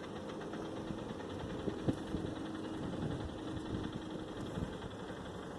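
A motor vehicle engine running faintly over steady outdoor background noise, with one light knock about two seconds in.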